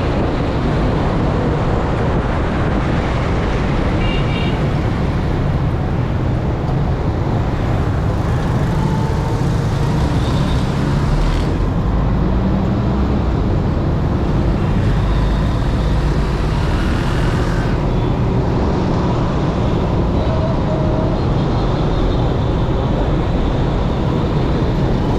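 Steady, loud road-vehicle and traffic noise with a continuous low rumble and no distinct events.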